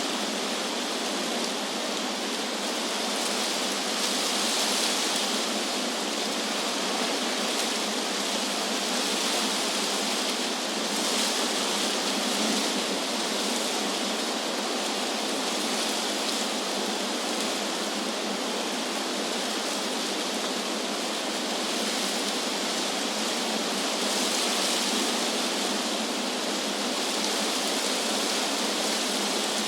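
Wind rustling through tree leaves, a steady hiss that swells gently a few times.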